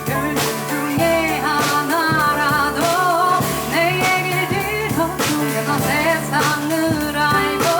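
Live jazz band with a singer: a female voice over piano, double bass and drums, the bass holding low notes under a wavering vocal line and light drum and cymbal strokes.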